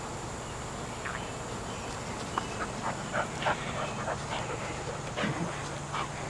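Puppies at play giving a run of short, high yips, clustered from about two to five and a half seconds in.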